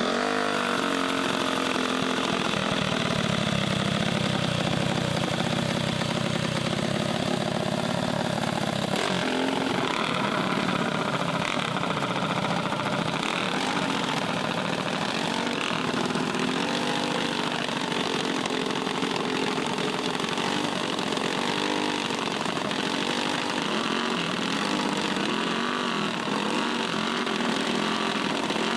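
Small mini bike engines running and revving in a steady, buzzing drone.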